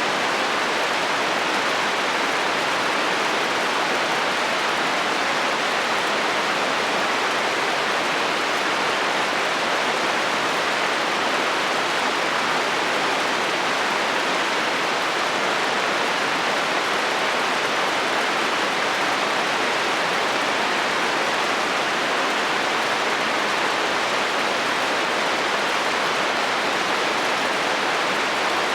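Steady rain falling on a metal roof, an even, unbroken sound at a constant level with no thunder in it.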